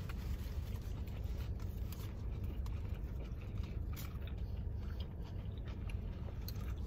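People biting into and chewing sub sandwiches, with small crunches and soft mouth clicks, over a steady low rumble inside a car cabin.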